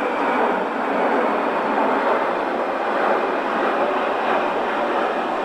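A loud, steady rushing noise with no clear tone, even throughout.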